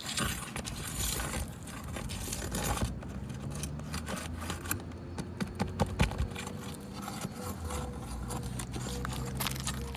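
Scraping and rustling of asphalt roof shingles being worked by hand, with scattered sharp clicks of a tool against them.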